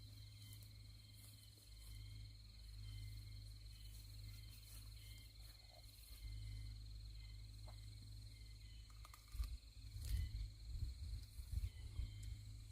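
A faint, steady, high insect trill over a low rumble, with a few soft low thumps near the end.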